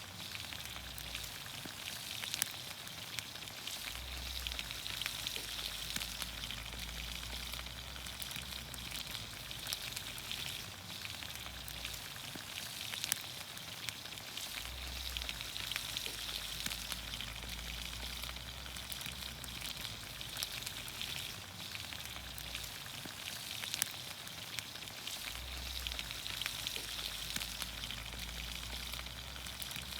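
Vegetables cooking in olive oil in a pan over a campfire: a steady, dense sizzle full of fine pops and ticks, with a few sharper pops now and then.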